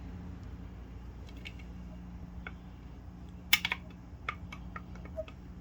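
Scattered light clicks and clatter of the septic aerator pump's parts being handled and pried apart as it is disassembled, the sharpest about halfway through, over a steady low hum.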